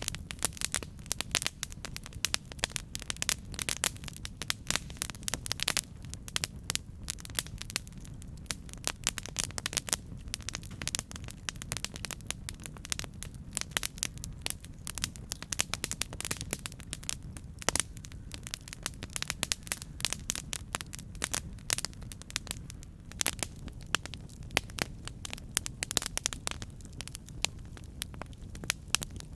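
Campfire burning with dense, irregular crackling and popping of wood over a steady low rumble of the flames.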